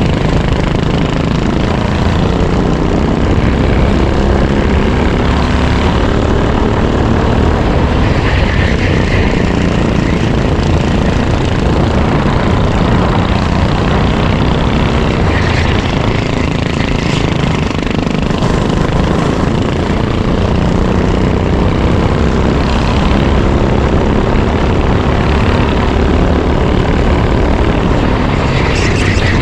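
Racing kart engine running hard, heard onboard over heavy wind noise, its pitch rising and falling over the lap.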